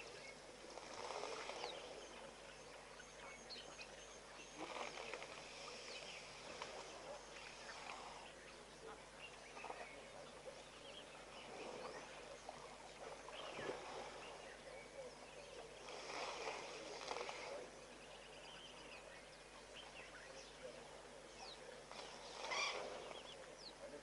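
Faint outdoor wetland ambience: scattered short bird chirps over a steady hiss, with a few brief louder swells of noise, the strongest near the end.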